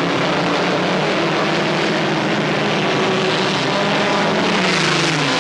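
Several race car engines running hard around the track. Their pitch holds steady, then drops near the end as the cars pass.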